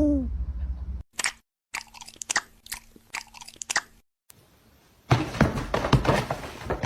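Crunching, chewing-like clicks and crackles in short runs, broken by brief dead silences, thickest and loudest in the last two seconds.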